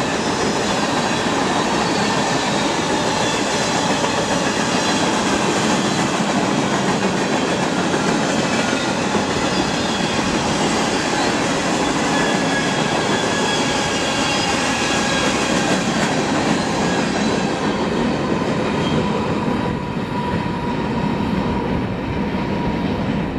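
BNSF mixed freight train's cars rolling past on the rails in a steady, loud rumble and rattle, with faint thin high tones from the wheels. The sound eases slightly near the end.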